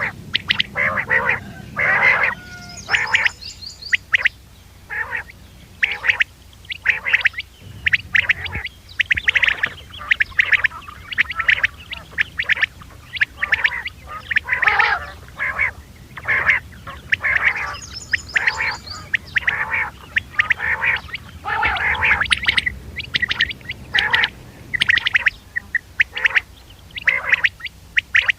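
Quail calling repeatedly in quick runs of short, sharp notes, a recorded call of the kind played to lure quail for hunting.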